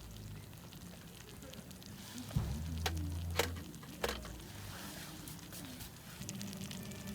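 Food sizzling as it cooks, with a steady faint crackle and a few sharp clicks about three and four seconds in, and a brief low hum under them.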